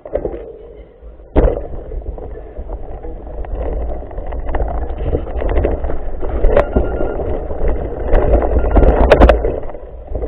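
Mountain bike rolling over a rough dirt trail, with wind buffeting the microphone and the bike rattling and clicking over bumps. A sharp knock comes about a second and a half in, and the rattle and rumble grow louder toward the end.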